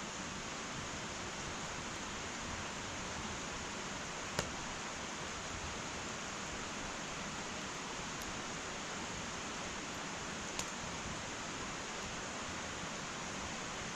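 Wood fire burning in an irori hearth: a steady soft hiss with a few sharp crackling pops of the burning wood, one about four seconds in and another near ten and a half seconds.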